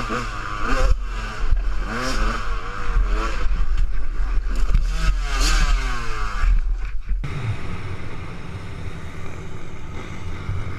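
Motocross bike engine revving up and down over and over as the throttle is worked and gears change. About seven seconds in, the sound cuts off abruptly to a steadier low rumble.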